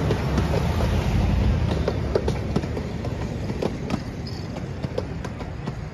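An 18-inch gauge miniature excursion train rolling past, a steady low noise broken by scattered clicks from the wheels on the rails. It grows fainter over the last few seconds as it moves away.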